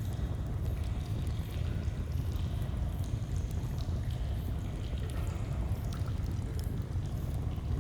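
Steady rush of a flowing stream, heavy and even in the low range, with scattered faint pops from a crackling campfire.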